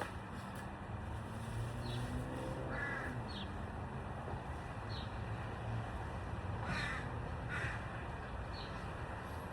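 A bird cawing three times, once about a third of the way in and twice close together past two-thirds, over a steady low rumble. Faint short high chirps come now and then.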